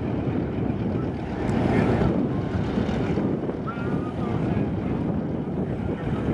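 Wind buffeting the camcorder microphone, a steady rumbling noise, with a few faint voices in the background.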